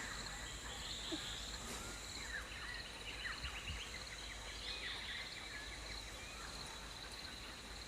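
Outdoor ambience: insects trilling steadily, with a quick series of bird chirps about three to four seconds in.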